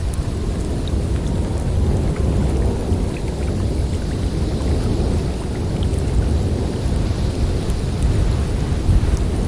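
Blizzard wind blowing steadily with a deep low rumble that swells and eases slightly, and a few faint, brief high ticks scattered through it.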